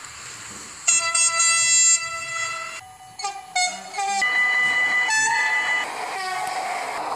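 Train horns sounding: a loud multi-note chord blast about a second in, then a few short toots that cut off abruptly, and another long chord blast from about four seconds in. There is a steady rumble underneath.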